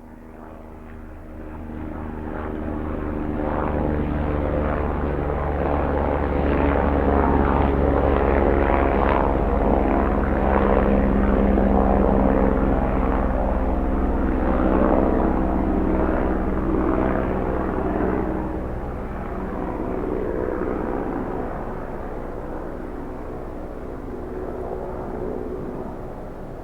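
Distant helicopter flying by: a steady rotor and engine drone that builds over the first few seconds, is loudest in the middle, and slowly fades away toward the end.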